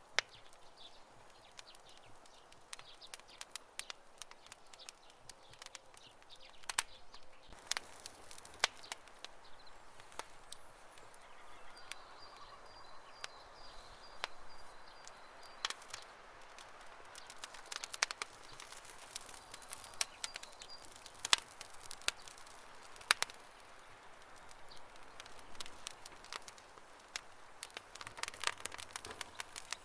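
Wood campfire crackling, with irregular sharp pops and snaps over a low, steady hiss. A faint, high, rapidly repeated chirp comes in about twelve seconds in and again briefly later.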